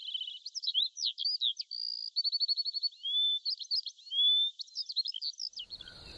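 Small songbirds chirping, with quick whistles, short trills and rising notes one after another. Near the end the birds stop and a steady cricket chirring takes over.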